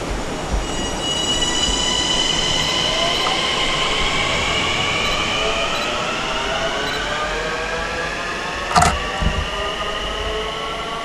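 Long Island Rail Road M9 electric multiple-unit train accelerating away from the station, its electric drive whine rising slowly in pitch over the rumble of the wheels. A single sharp knock sounds near the end.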